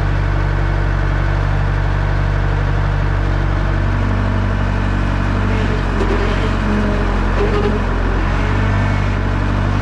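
1967 JCB 3C Mk II backhoe loader's diesel engine running steadily at idle, its note changing slightly about four seconds in.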